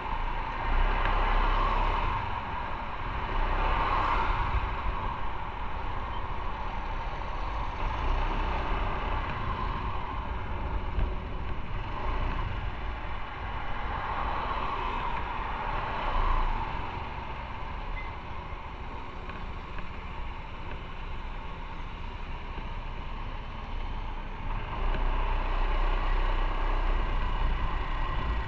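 Motorcycle under way: engine and road noise, swelling and easing several times through the stretch.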